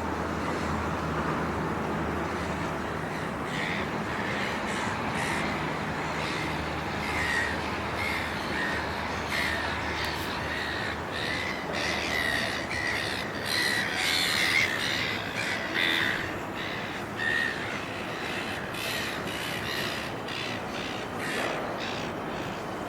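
Birds calling over and over in short, crow-like caws, thickest in the middle and thinning near the end, over a steady low rumble of city and rail background noise.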